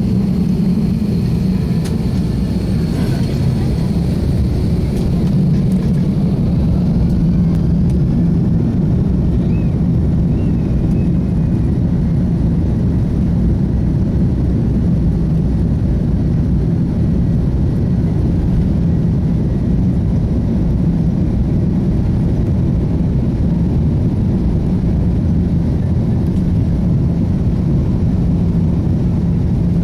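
Airliner's jet engines and airflow heard from inside the passenger cabin during takeoff: a loud, steady rumble, with a faint high whine that fades over the first several seconds.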